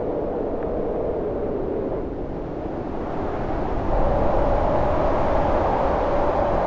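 Storm wind howling, a wavering moaning tone over a steady low rumble, gusting louder about four seconds in.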